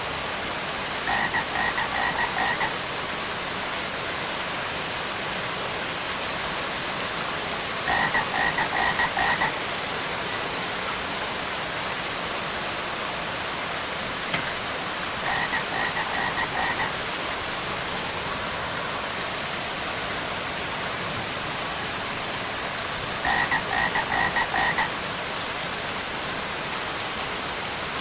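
Steady rain falling, with a frog croaking in four short bouts of rapid pulses, roughly every seven seconds.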